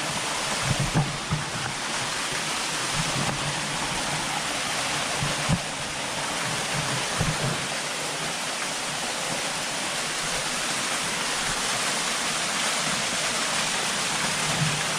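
Steady rush of a small waterfall falling onto rocks, with a few soft low thumps in the first half.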